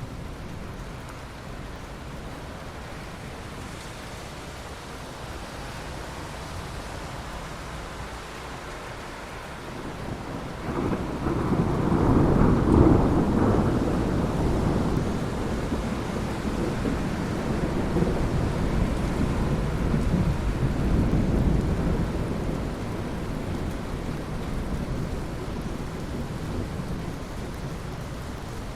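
Steady rain falling, with a long roll of thunder that builds about ten seconds in, is loudest a few seconds later, and rumbles on for several seconds before slowly dying away.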